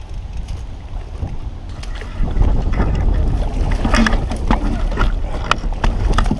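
Wind rumbling on the microphone, joined from about two seconds in by a busy run of splashes and knocks in the water around a kayak.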